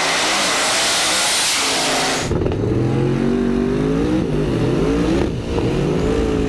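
Drag race cars at full throttle: a loud rushing roar, then abruptly a strong engine note whose pitch rises, dips and wavers as the car pulls down the track.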